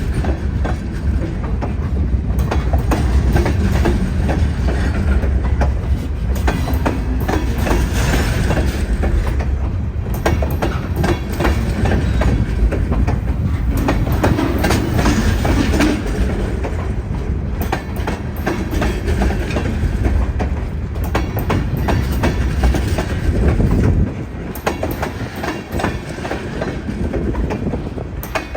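A train passing close by: a steady, loud, heavy rumble with the wheels clicking rapidly over the rail joints. It drops somewhat in loudness about 24 seconds in, then continues.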